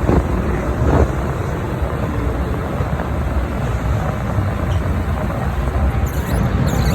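MTR M-Train electric multiple unit running between stations, a steady loud rumble of wheels and motors. A brief high screech comes near the end.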